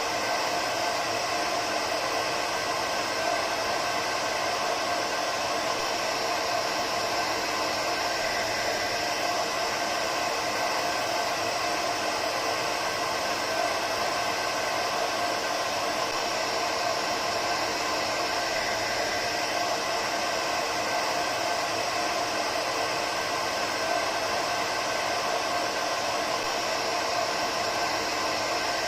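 Hair dryer running continuously: a steady rush of air with a constant motor whine in several fixed tones and no change in speed.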